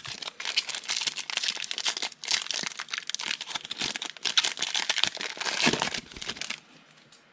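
Foil wrapper of a football trading-card pack being torn open and crinkled by hand: a dense run of crackling that stops about six and a half seconds in.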